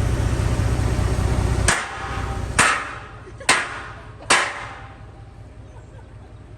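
A steady low engine rumble cuts off about a second and a half in. Four sharp hammer blows on metal follow, evenly spaced under a second apart, each ringing briefly.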